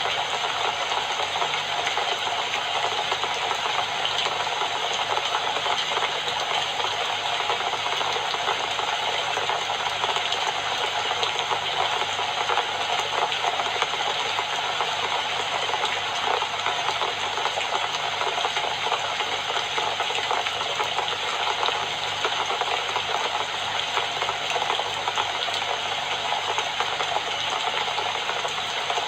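Steady rain falling, a dense even patter that holds at the same level throughout.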